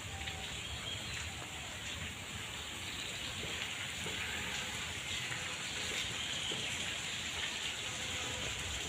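Steady hiss of light rain and dripping water, with scattered drips and a few faint bird chirps.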